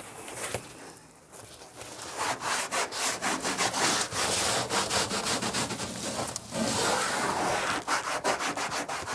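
A cloth being rubbed hard back and forth over the truck bed's textured bed-liner coating, wiping it down with alcohol. The scrubbing runs in two spells of quick strokes, with a short pause between them about six and a half seconds in.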